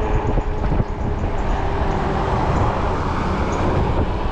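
Wind rushing over the microphone with steady road noise from an Ecotric 20-inch fat-tire folding e-bike rolling along. A faint steady tone runs through the first couple of seconds.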